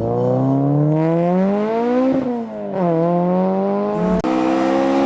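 A man's voice imitating the engine of a Toyota AE86 Trueno. The pitched engine-like drone rises steadily for about two seconds, drops sharply as if shifting gear, and climbs again. It then breaks off briefly around four seconds in and settles into a steady tone.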